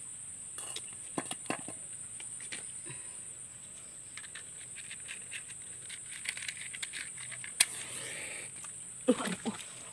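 Dry sticks being handled and laid in a small stone fire pit: scattered light clicks and knocks over a steady high hiss. A lighter is struck with a sharp click a little past seven seconds in and flames, and near the end a chicken starts calling.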